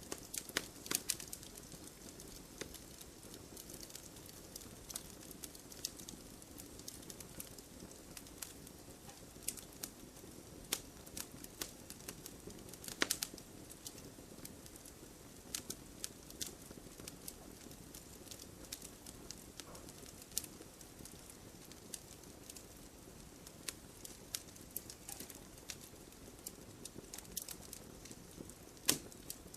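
Quiet wood fire in a fireplace crackling: irregular sharp pops and snaps over a faint steady hiss, with a louder pop about 13 seconds in and another near the end.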